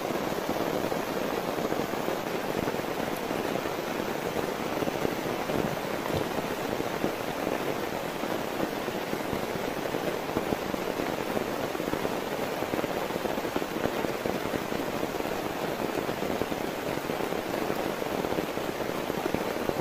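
Heavy rain falling steadily, a dense patter of drops that holds even throughout.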